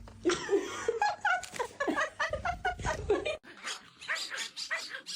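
A pet's rapid run of short, high yapping calls, many to the second.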